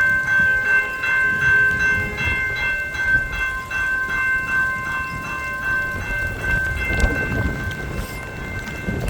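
Railway crossing bell ringing rapidly, a metallic ding repeating about three times a second, fading after about six seconds. Gusting wind buffets the microphone with a heavy low rumble throughout, and there is a single knock near the end.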